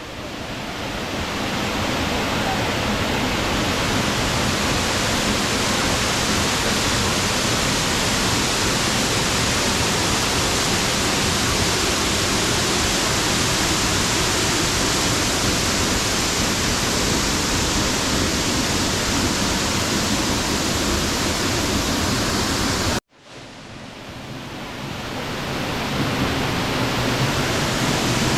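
Dry Falls, a large waterfall, rushing steadily and loudly. The sound cuts out abruptly about 23 seconds in, then swells back up over a few seconds.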